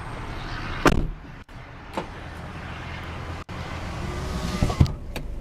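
1999 Honda Prelude's four-cylinder engine idling steadily, heard from inside the cabin, with a few sharp clicks and knocks over it. The loudest click comes about a second in.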